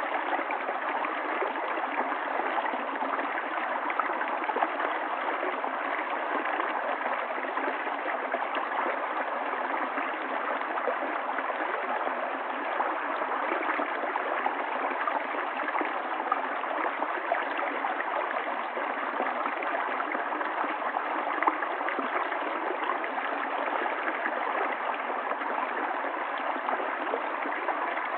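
Stream water running steadily, with many small splashes and no change in level.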